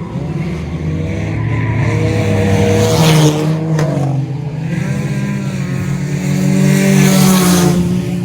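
Race cars running on the track, engines passing close twice: about three seconds in and again near the end.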